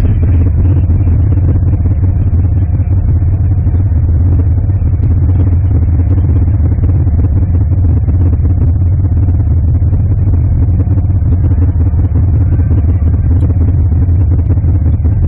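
Car engine running steadily with a deep, even low rumble and no revving.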